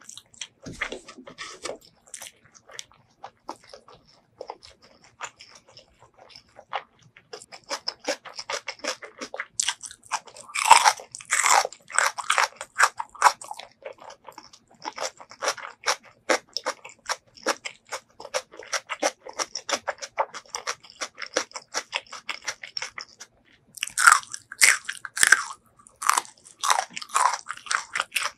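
Close-miked eating sounds: wet chewing and crunching of spicy chicken gizzards, small raw onions and a green chilli. Runs of louder crunching come about ten seconds in and again about twenty-four seconds in.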